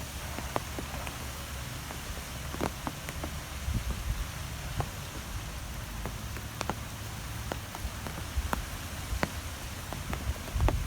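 Nature ambience of steady rain-like hiss with a low rumble underneath and scattered sharp ticks of drops landing.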